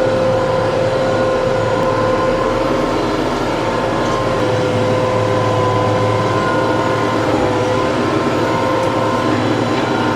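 TYM T654 tractor's diesel engine running steadily, with a constant whine that sags slightly in pitch.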